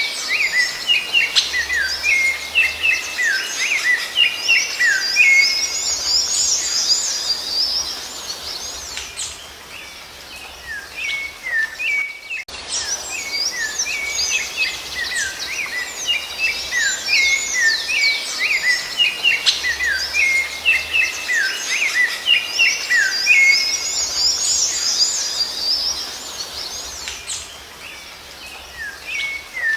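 Rufous-bellied thrush (sabiá-laranjeira) and other songbirds singing, a dense run of quick high chirps and whistles. It breaks off briefly about twelve seconds in, then the same passage starts over, as in a looped recording.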